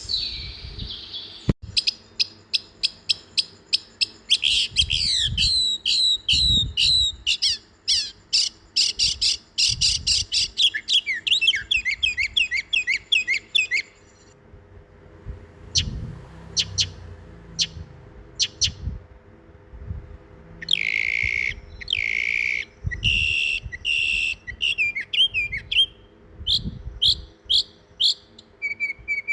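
Songbird chirping: a fast run of sharp, downward-slurred high chirps for the first dozen seconds, then more scattered chirps and short calls.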